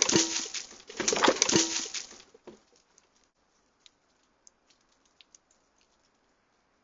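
Scrabbling and plastic clattering at a bird-feeder raccoon barrier made of a sewage pipe and a salad bowl, as an animal climbs at it. There are two loud bursts in the first two seconds, each with a brief squeak, then only faint scattered clicks.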